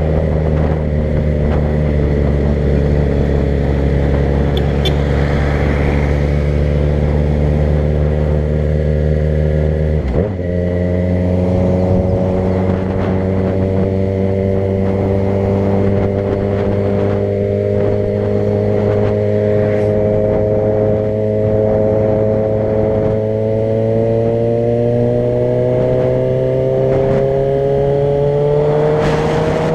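A vehicle's engine running under way while driving. About ten seconds in there is a gear change, after which the engine note climbs slowly.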